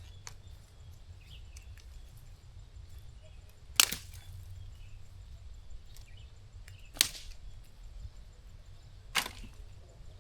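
Three sharp cracks a few seconds apart, the first the loudest, over a faint low rumble.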